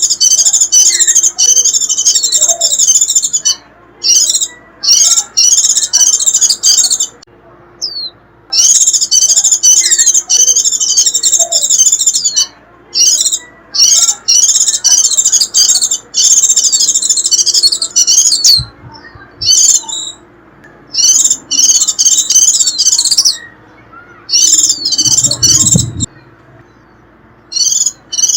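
White-eye (vành khuyên) giving its fast, high-pitched twittering "rít" song in repeated bouts of one to three seconds, with short pauses between them. This is the call used as a lure to draw in wild white-eyes.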